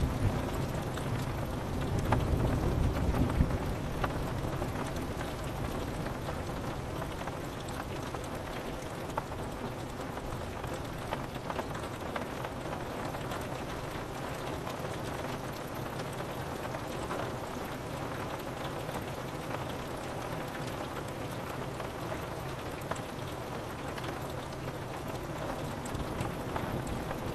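Steady rain falling on a window, with scattered small drop ticks. A low rumble of thunder dies away over the first few seconds.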